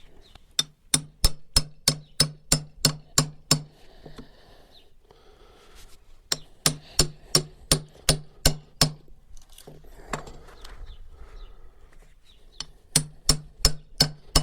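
Hammer blows on a steel tool set into a red oak log, working to dig out embedded nails. The blows come about three a second in three runs, about a dozen, then nine, then a last run near the end, each with a short ring.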